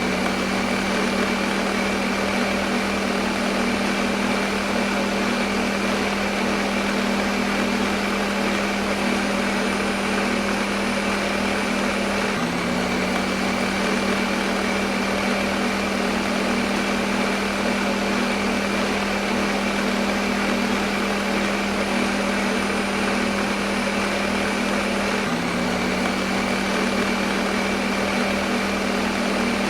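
Electric kitchen blender motor running steadily at one speed: a continuous whirring hum with a high whine over a rushing hiss. The pitch dips slightly and recovers about every 13 seconds.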